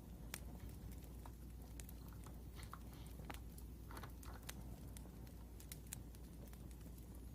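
Wood fire crackling: faint, irregular sharp pops and snaps over a steady low hum.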